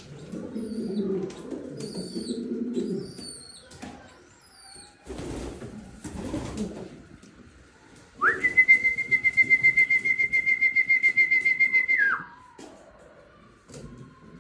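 Pouter pigeon cooing in low, throbbing phrases for the first few seconds. Later a loud, steady high-pitched whistle pulses rapidly for about four seconds, then cuts off.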